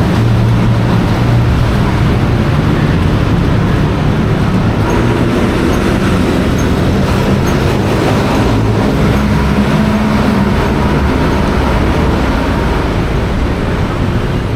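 Hino AK176 bus's diesel engine running while the bus is under way, with road noise. The engine note shifts pitch a few times, rising for a stretch in the latter half and then dropping back.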